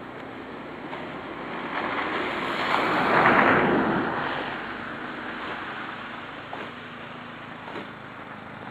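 A vehicle passing on a snowy street: a tyre rush that swells to a peak about three seconds in, then fades away.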